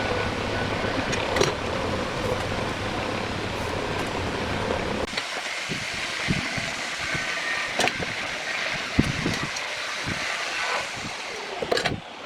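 A power tool motor running steadily for about five seconds, then cutting off, followed by scattered knocks and clicks of wood being handled.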